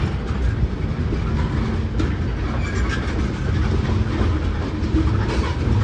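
CSX mixed freight train's cars rolling past, including tank cars: a steady low rumble of steel wheels on rail, with a few sharp clicks as wheels cross rail joints.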